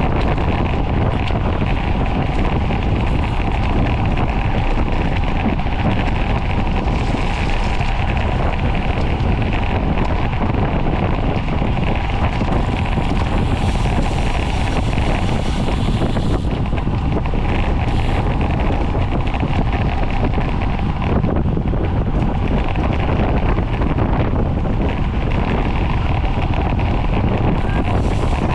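Steady wind rushing over the microphone of a rider's camera on a racing bicycle moving at speed, a continuous loud rush with a faint steady whir underneath.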